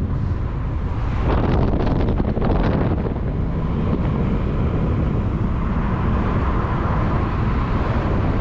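Wind buffeting the microphone over a steady low engine rumble, with gusty crackles between about one and three seconds in.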